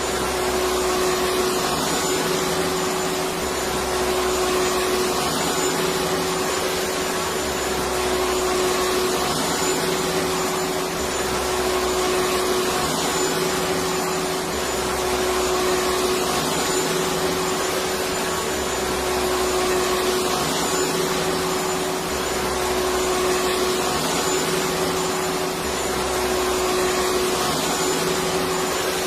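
Electric vacuum cleaner running steadily: a continuous whooshing whir with a steady hum, and a faint low throb that comes and goes every couple of seconds.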